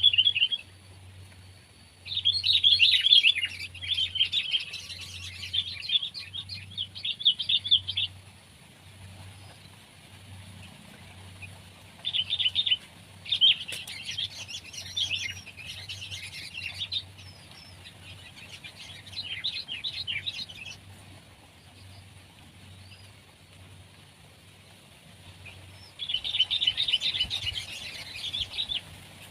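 Sooty-headed bulbul singing in bursts of quick, repeated notes, each burst lasting a few seconds, with pauses between.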